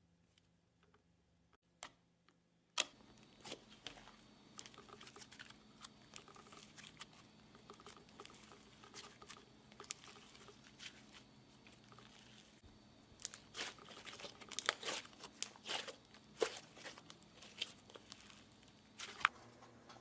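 Near silence for about three seconds, then crinkling and crackling handling noise with many scattered sharp clicks, as slime and plastic materials are worked by hand.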